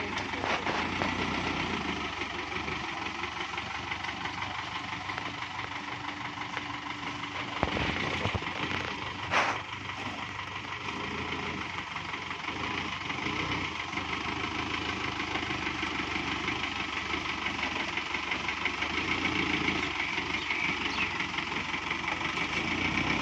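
Kubota MU5702 tractor's diesel engine running steadily. A low thump comes about eight seconds in, and a sharp clank about a second and a half later.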